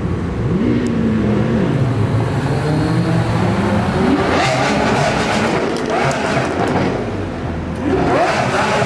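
Lamborghini Aventador SV's V12 engine revved hard in repeated blips as it drives past, its pitch sweeping up and dropping back several times, with the biggest revs about four seconds in and near the end.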